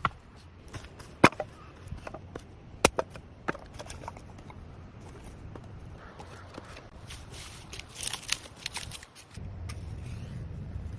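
A few sharp knocks in the first few seconds, then a patch of crunching and crackling, and from near the end a steady low rumble.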